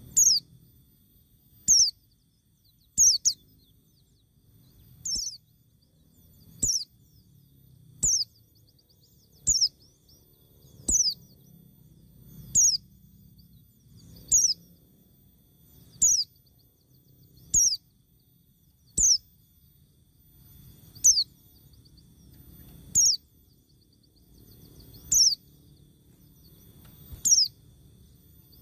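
A bird repeating a short, high, sharply falling call, about once every one and a half to two seconds.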